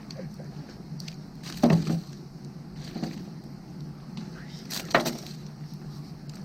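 Firewood burning with crackles: two loud sharp pops, one about a second and a half in and one near five seconds, and a few smaller snaps between, over a steady low hum.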